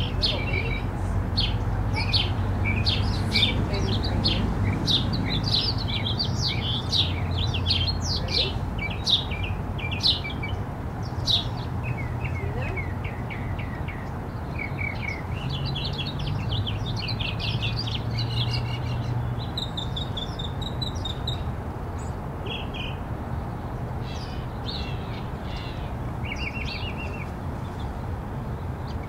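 Small birds chirping in quick, repeated calls, busiest in the first half and sparser later, over a steady low hum.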